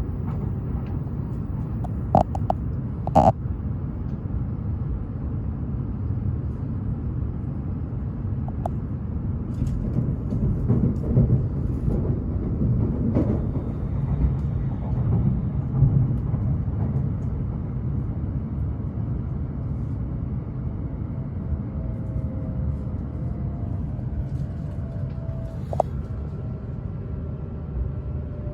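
E7/W7-series Shinkansen train in motion, heard as a steady low rumble, with a few sharp clicks a couple of seconds in. Faint whining tones set in near the end and fall slightly in pitch.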